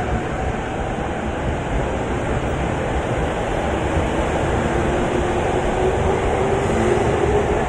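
Electric commuter train pulling out of a station platform and gathering speed: a steady rumble of wheels on rail, with the motor whine gliding slowly upward in pitch as it accelerates.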